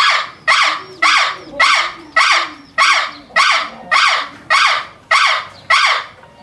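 A bird giving a run of eleven loud, harsh calls, evenly spaced at a little under two a second.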